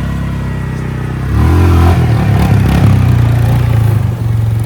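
Motorcycle engine running, then revving up about a second in and holding at higher revs under throttle.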